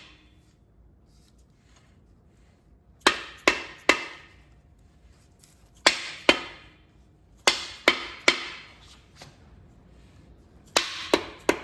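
Hammer striking a part on an engine block in quick sets: three blows, then two, three and three, each with a short sharp ring.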